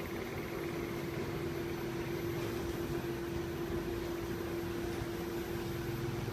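XGQ 100 kg industrial washer-extractor running: a steady hum over an even rushing noise.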